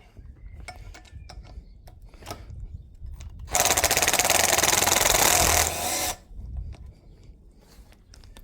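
A handheld power tool runs in one burst of about two and a half seconds with a rapid rattling chatter, driving at a stuck part to screw it out. Light knocks of tools and metal handling come before and after.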